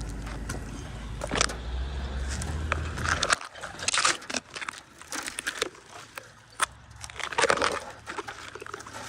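Irregular crackling and snapping of dry twigs and branches, over a low steady engine hum that cuts off about three and a half seconds in.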